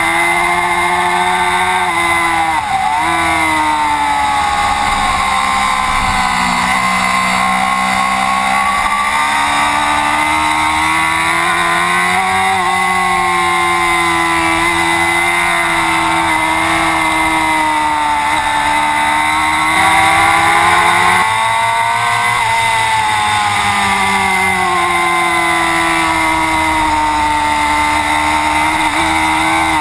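Racing motorcycle engine at speed, its pitch rising and falling over and over as the bike accelerates and slows through the corners, with a few quick drops in pitch at gear changes.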